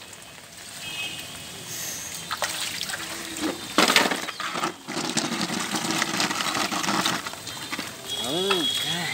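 Rain falling on a wet concrete floor, a steady patter, with a knock about four seconds in and a brief voice near the end.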